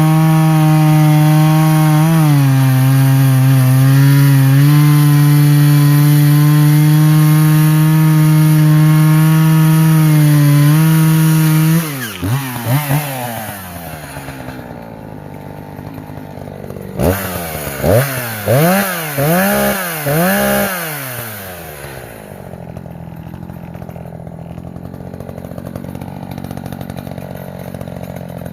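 Echo CS-590 two-stroke chainsaw running at full throttle through an oak log, revs dipping slightly under load. About halfway through the throttle is released and the revs fall. The saw is then blipped about five times and settles to a steady idle.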